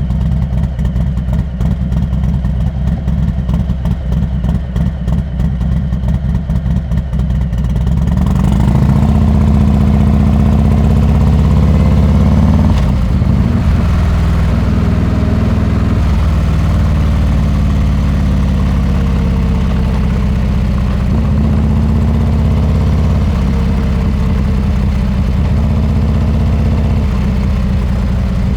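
Harley-Davidson Heritage Classic 114's Milwaukee-Eight V-twin through a Rinehart exhaust, idling with a rapid, even beat for about eight seconds. It then gets louder and runs under way, its pitch rising and falling.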